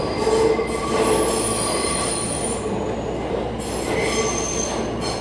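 R160 subway train pulling out of the station: a steady rumble with high, ringing squeal tones from the wheels on the rails, coming and going.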